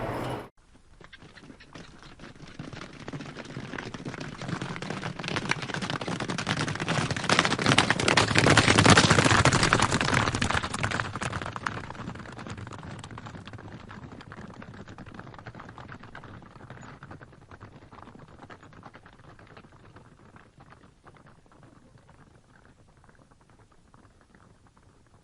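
Horses galloping past: a dense patter of hoofbeats builds over several seconds, is loudest about nine seconds in, then slowly fades away.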